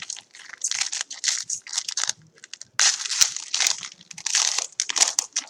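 Plastic and foil packaging on a trading-card box crinkling and tearing as it is opened by hand, in irregular rustling bursts, loudest about three seconds in.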